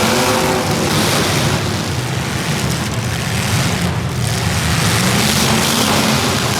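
Motor vehicle engines running under a steady, loud rush of noise, with revving that rises and falls in pitch near the end.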